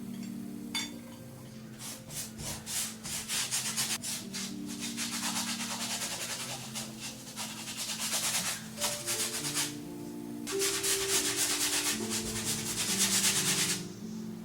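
Paintbrush scrubbing paint onto canvas in quick, scratchy rubbing strokes, in two long stretches with a short pause about two-thirds of the way through. Soft background music plays underneath.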